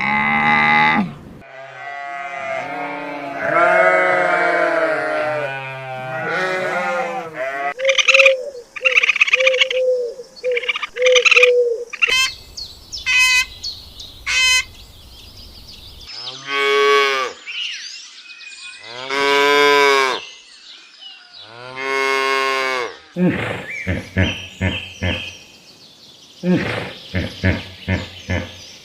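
Cows mooing: several drawn-out calls, each a second or two long, with shorter, quicker animal calls between them.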